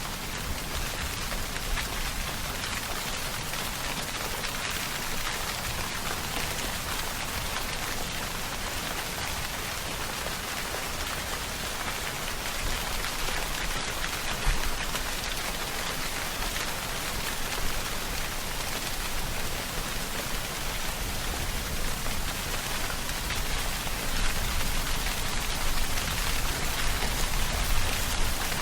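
Steady, heavy rainfall: a dense, even hiss of drops with a few louder drops standing out now and then, growing slightly louder near the end.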